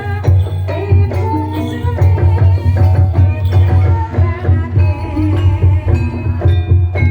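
Live Javanese gamelan music of the kind that accompanies ebeg: rapid struck metal-keyed notes over hand-drum strokes and a steady low ringing tone.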